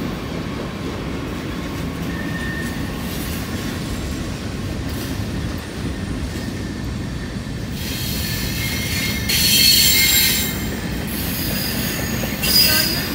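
Long freight train rolling past: a steady rumble of steel wheels on the rails, with the wheels squealing in a loud high-pitched burst about nine seconds in and a shorter one near the end.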